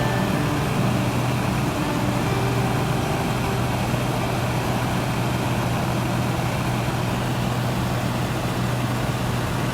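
Steady low drone of a running vehicle, an even engine hum with noise over it that holds the same pitch and level throughout.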